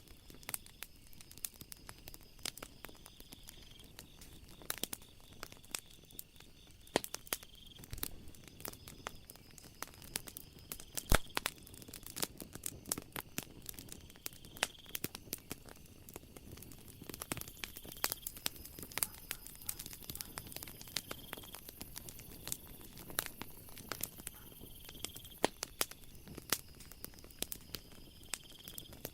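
Wood fire crackling with irregular sharp pops, one louder pop near the middle. Behind it, night insects give a faint high call repeating about every two seconds, joined later by a steady high buzz.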